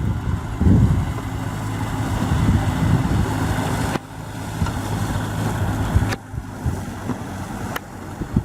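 Kubota M6040SU tractor's four-cylinder diesel engine running steadily, with wind gusting on the microphone. The sound drops abruptly about four seconds in and again about six seconds in.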